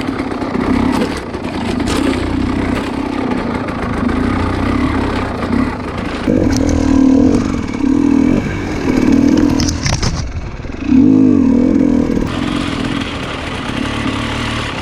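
300cc two-stroke enduro dirt bike engine revving up and down repeatedly while riding a rough trail, with scattered clattering and scraping knocks.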